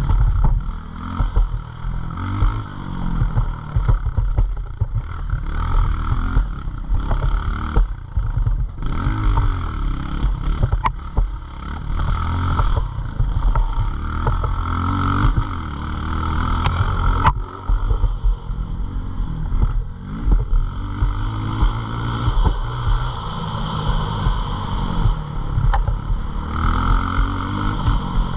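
Pit bike engine running hard, its pitch climbing and dropping again and again as the throttle is opened and closed, with a few sharp clicks.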